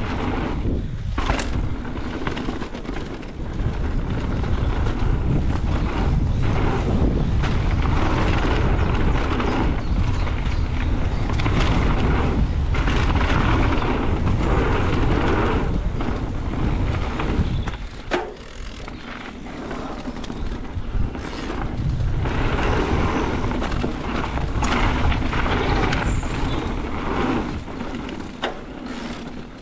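Wind rushing over the microphone and knobbly tyres rumbling on a fast dirt trail as a mountain bike rides at speed, with occasional short knocks from bumps.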